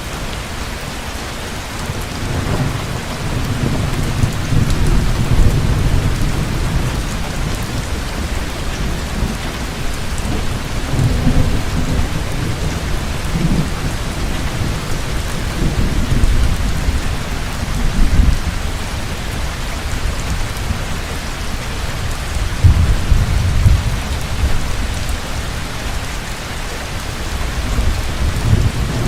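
Heavy rain falling steadily, with thunder rumbling low several times, swelling and fading over a few seconds each.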